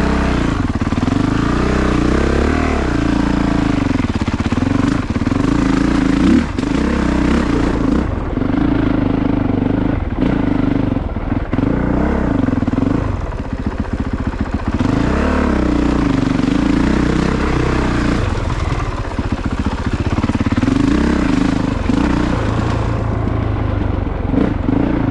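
Honda CRF450RX dirt bike's single-cylinder four-stroke engine revving up and down over and over as it is ridden through rough single track, with a few knocks and clatter from the bike.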